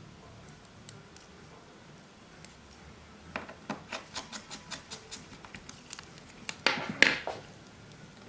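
Small clicks, taps and scrapes of tools and phone parts being handled on a workbench during a smartphone screen repair. Sparse at first, then a quick run of clicks, with the loudest burst of scraping and clicking near the end.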